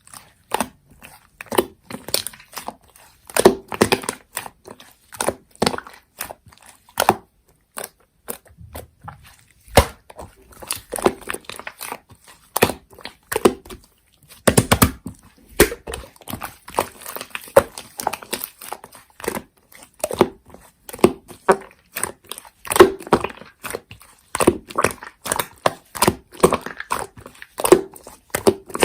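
Slime being squeezed and pressed by hand, making a dense, irregular run of sharp clicks and pops.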